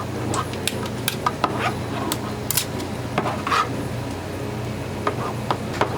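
Fish cakes frying in hot oil with a steady sizzle, while metal utensils clink and tap irregularly against the fryer, over a steady low hum.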